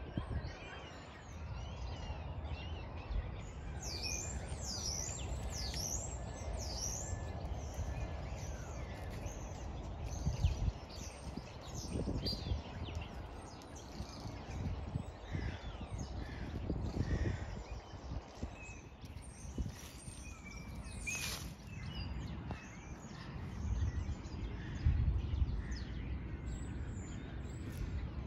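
Small birds chirping and calling, with a run of quick falling notes a few seconds in, over a steady low rumble.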